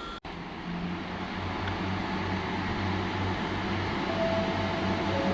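A train arriving at the station: a low, throbbing engine sound that grows steadily louder, starting right after an abrupt cut.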